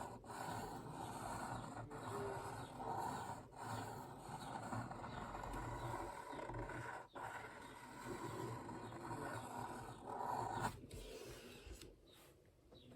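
Fineliner pen scratching across watercolour paper in long sketchy strokes, stopping for an instant each time the pen is lifted, and trailing off near the end.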